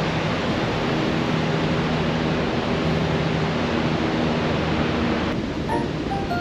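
Steady rush of water from Iguazu Falls, a thick even roar. About five seconds in it drops back and a melody of short, high notes begins.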